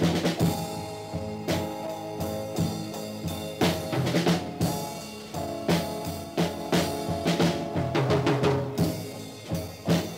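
Instrumental passage of a rock song: a drum kit with bass drum and snare hits under held, sustained chords, with no singing.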